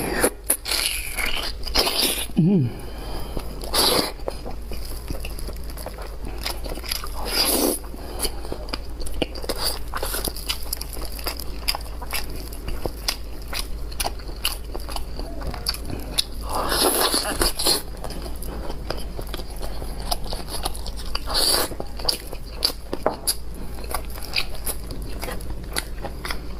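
Close-miked eating: steady chewing with many small wet clicks, and several louder bites about 4, 7.5, 17 and 21 seconds in.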